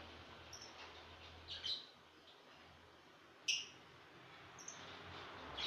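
Lovebirds chirping: a handful of short, sharp, high chirps, spaced irregularly a second or so apart.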